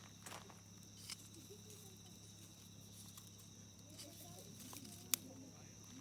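Wood campfire crackling faintly with scattered small snaps, and one sharp pop about five seconds in.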